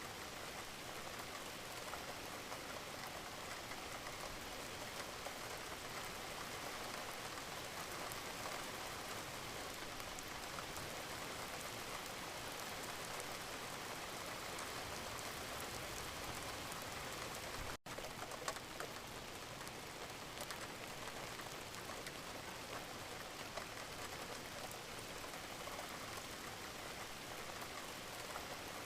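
Steady rain falling, with individual drops ticking through the hiss. The sound cuts out for a split second about two-thirds of the way through, then carries on unchanged.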